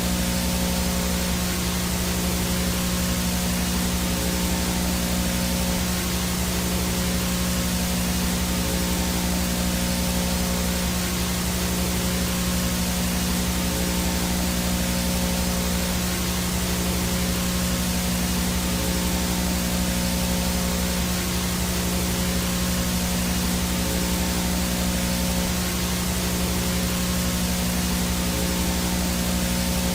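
VHS static with interference: a steady, even hiss with a low buzzing hum under it and a faint high whine.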